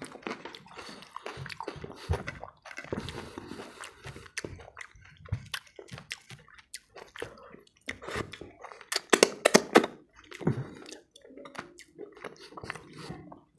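Close-up wet chewing and lip smacking of rice, dal and fried fish eaten by hand, with fingers picking at a paper plate. The sound is an irregular run of sharp, clicky mouth smacks, loudest about two-thirds of the way in.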